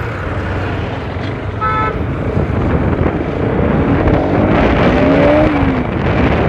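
Bajaj Pulsar RS200 motorcycle's single-cylinder engine running as the bike pulls away from the roadside into traffic, its note rising and falling once around five seconds in. A short vehicle horn toot sounds a little under two seconds in.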